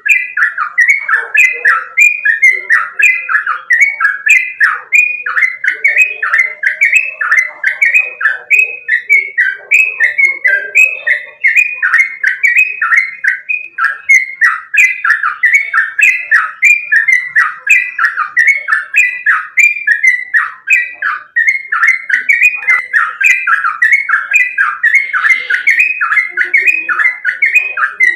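Yellow-vented bulbul (trucukan) singing a fast, unbroken run of loud, repeated descending whistled notes, two to three a second.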